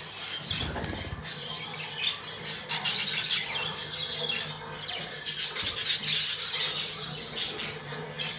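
Budgerigars chirping and chattering: a continuous run of quick, high-pitched calls and squawks.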